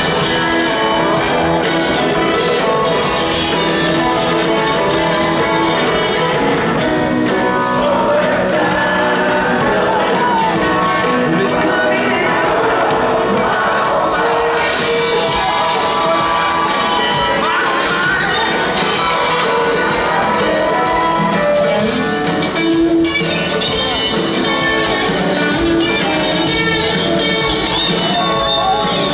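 Live rock band playing a song with singing, heard in a large hall, with some shouting from the crowd.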